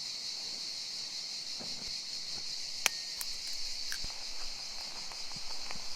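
Steady high-pitched chirring of insects, such as crickets or cicadas, with one sharp click about halfway through and a few faint ticks.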